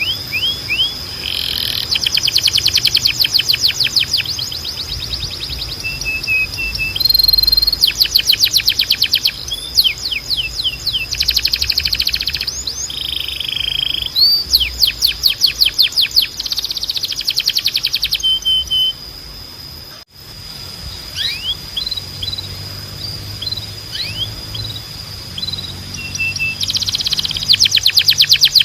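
Timbrado canary singing: fast rattling trills and rolls, long held high notes, and short falling whistles, in phrases of a second or two. The song breaks off briefly about two-thirds of the way through, then resumes.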